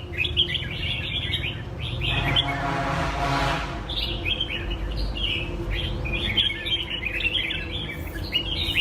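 Several caged red-whiskered bulbuls singing at once, a dense run of short, bright chirping phrases. A broader rushing noise with a hum in it swells and fades about two to four seconds in.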